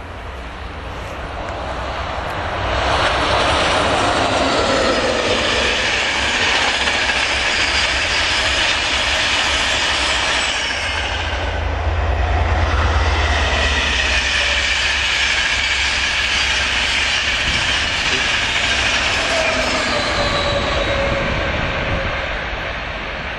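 Express passenger train passing at speed, its wheels running on the rails. The noise rises over the first three seconds, holds with a brief dip about halfway through, and eases off near the end.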